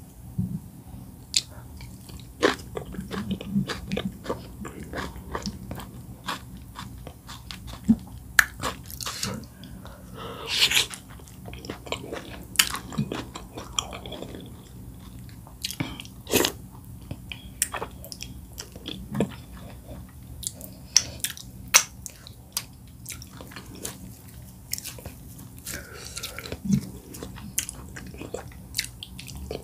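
Close-miked ASMR eating sounds of a person chewing oat fufu and bitterleaf soup eaten by hand: wet chewing with many irregular sharp mouth clicks and smacks.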